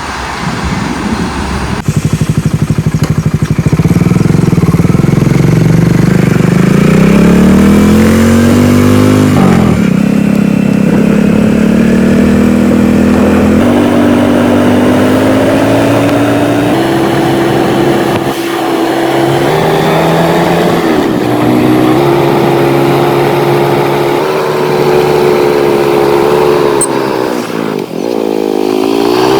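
Motorcycle engine pulling away and accelerating, its pitch climbing, dropping sharply about ten seconds in as it shifts gear, then rising in steps through further gears, with a brief dip near the end.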